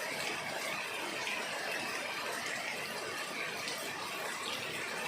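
Steady rain falling, with rainwater running: a continuous, even hiss that holds level throughout.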